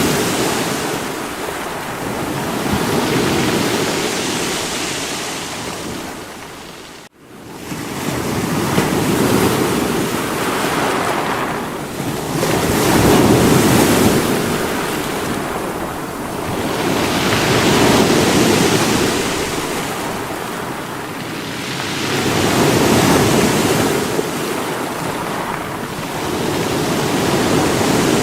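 Sea waves breaking against rocks, the surf swelling and ebbing every four to five seconds. It cuts out for a moment about seven seconds in.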